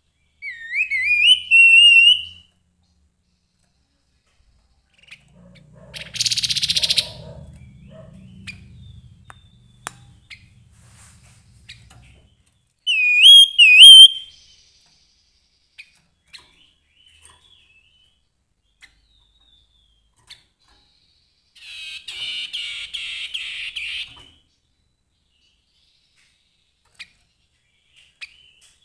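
Grey-headed babbler singing: two short, loud phrases of wavy whistled notes, one near the start and one about halfway through, with a harsh, rattling chatter later on. A brief hissing burst with a low rumble comes a few seconds in.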